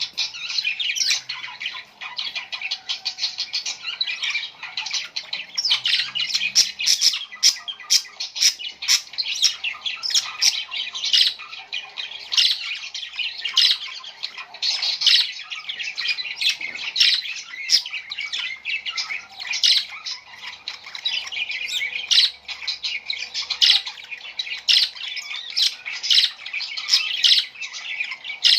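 Small birds chirping and squawking in a dense, rapid, high-pitched chatter that never lets up.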